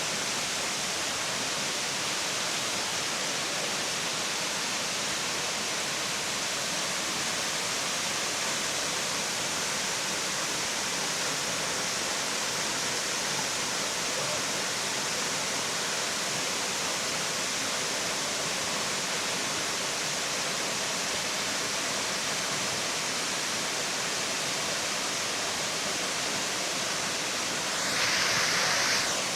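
Waterfall: falling water rushing steadily and evenly, most of it high-pitched hiss. Near the end a louder rush swells for about a second.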